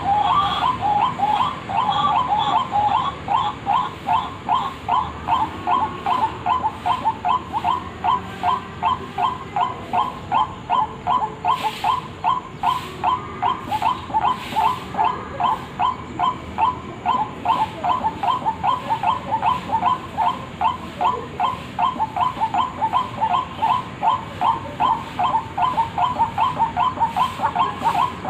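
White-breasted waterhen (ruak-ruak) lure recording: the bird's call note repeated fast and evenly, about two to three calls a second, without a break.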